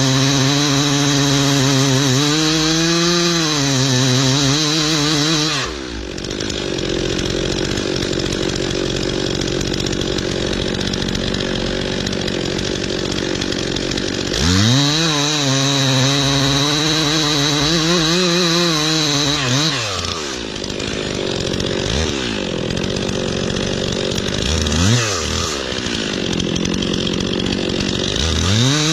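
Chainsaw revving to full throttle and cutting, its pitch wavering under load, then dropping back to a lower run between cuts. This happens twice, followed by short blips of the throttle near the end.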